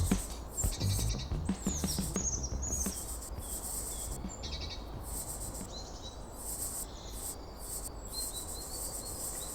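Several small birds chirping and trilling in quick, high-pitched calls over a faint background hum of insects.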